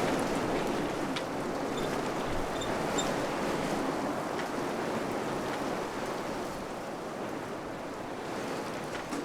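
Wind blowing steadily, easing a little after about six seconds, with a few faint high ticks in the first three seconds.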